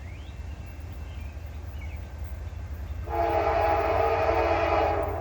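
Diesel locomotive's air horn sounding one blast of about two seconds, a chord of several notes, starting about three seconds in, over the low steady rumble of the train's engines.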